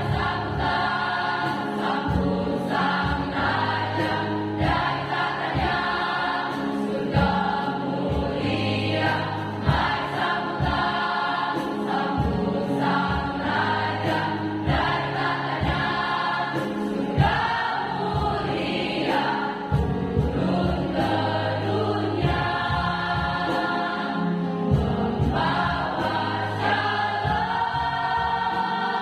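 School choir singing a Christmas song in harmony, holding and changing chords without pause.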